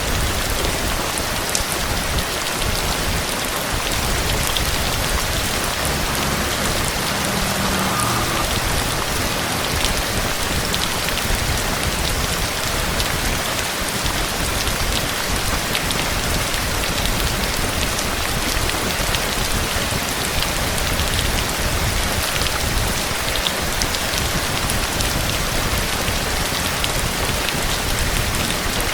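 Steady heavy rain falling on a surface, a dense even hiss dotted with the ticks of single drops.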